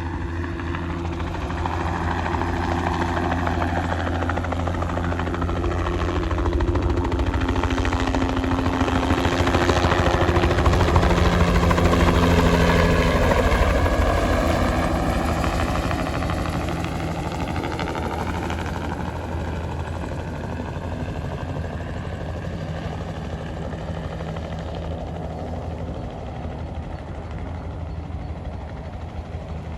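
Crop-spraying helicopter flying past, its rotor and engine hum growing louder to a peak about halfway through, then fading as it moves away.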